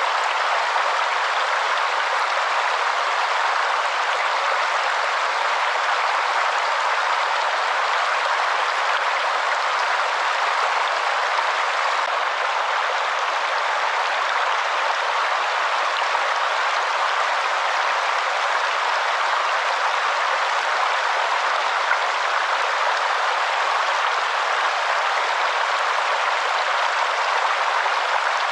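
Waterfall rushing steadily, an even hiss of falling water with little low rumble.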